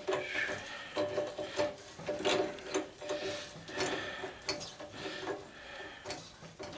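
Hand work on the parts of an old belt/disc sander: a string of short scraping, squeaky creaks and clicks, about one or two a second, as a part is twisted and worked loose.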